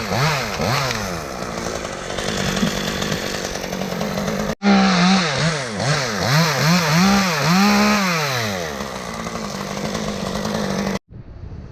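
Chainsaw engine revving up and down in quick repeated pulses, then held at a steadier speed, with a sudden break about four and a half seconds in. It cuts off abruptly near the end, leaving wind noise.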